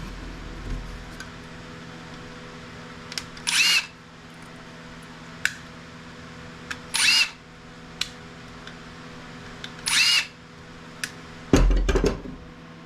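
Cordless drill-driver running in three short bursts about three seconds apart, backing out screws, with small clicks between the bursts. A heavy clunk comes near the end.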